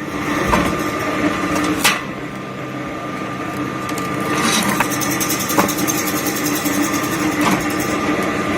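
Homemade rack-and-pinion log splitter running: a steady motor-and-gearbox hum with several sharp knocks scattered through it.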